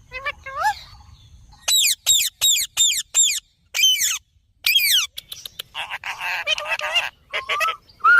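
Indian ringneck parakeet calling: a short rising call, then a quick run of loud, sharp screeches that slide down in pitch. About two-thirds of the way in comes a harsh, raspy squawk, followed by a few shorter calls.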